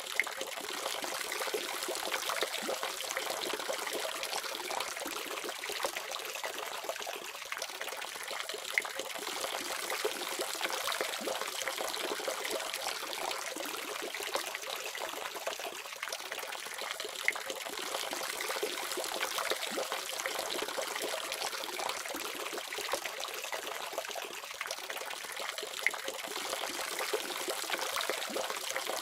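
Water running steadily from a faucet: an even, splashing hiss. A brief sharp tick cuts through it about every eight and a half seconds.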